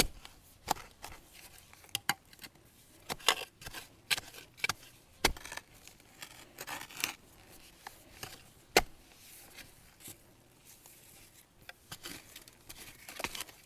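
Scattered sharp clicks, snaps and light rustling of brush and dry bamboo being handled while digging out young bamboo shoots, the loudest snap a little under nine seconds in.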